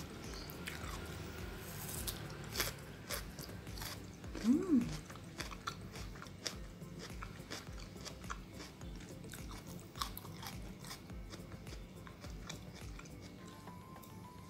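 Close-up crisp crunching and chewing of firm Korean oriental melon (chamoe), with many short crunches through the bites. About four and a half seconds in comes a brief hummed sound that rises and falls.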